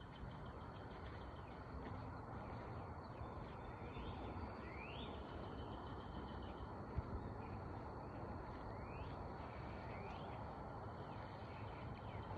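Birds chirping, short rising calls recurring every second or so, over a faint steady outdoor hiss, with one small click about seven seconds in.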